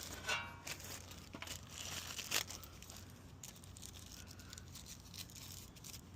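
Hand work on truck steering parts: faint scattered clicks and light rustling, with a brief squeak a moment in.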